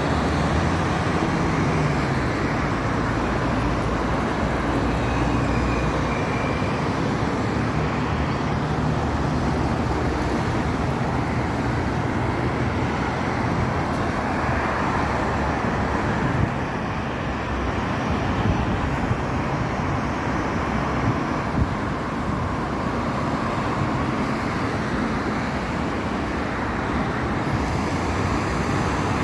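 Steady city road traffic noise: vehicle engines running and tyres on the road, with a low engine hum rising and falling as vehicles pass.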